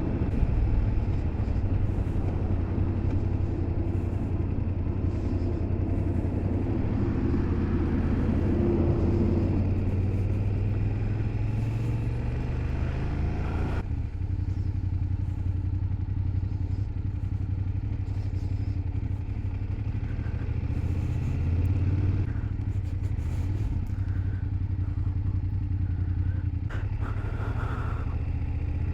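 BMW F800GS parallel-twin motorcycle engine running under way with wind rush. The engine note climbs for a few seconds, then drops sharply about fourteen seconds in and settles back to a steady drone.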